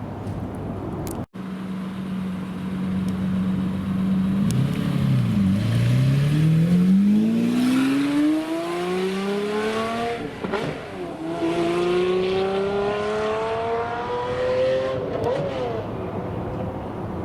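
Supercar engine holding a steady note, then accelerating hard. Its pitch climbs for several seconds and drops at an upshift about ten seconds in, then climbs again to another shift about fifteen seconds in.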